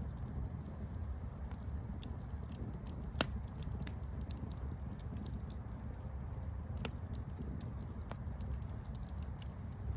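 Campfire burning with a steady low rumble and scattered sharp crackles and pops, the loudest pop about three seconds in.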